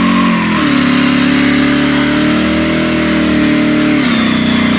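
Muscle car V8 engine pulling hard at high revs with a high whine over it; the pitch drops suddenly about half a second in, as on an upshift, then holds and drops again near the end.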